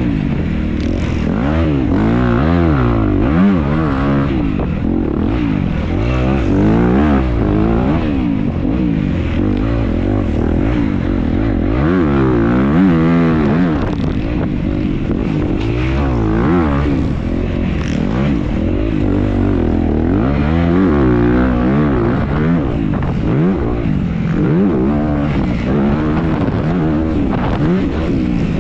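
Dirt bike engine ridden hard around a motocross track, revving up and falling back again and again as the rider accelerates, shifts and backs off for corners. Heard from a camera mounted on the bike or rider.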